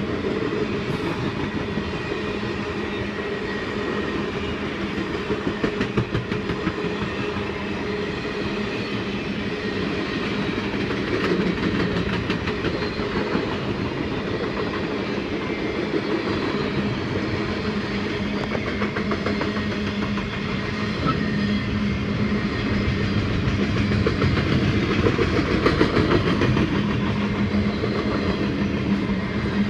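A long passenger-car train rolling past at speed: steel wheels rumbling steadily on the rails, with a running clickety-clack of wheels crossing rail joints. The clacking grows louder about a third of the way in and again near the end.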